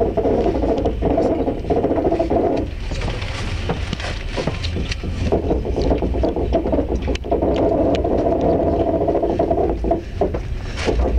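Passenger train carriage moving off at low speed: a steady rumble from the wheels on the track, broken by many irregular clicks, knocks and rattles.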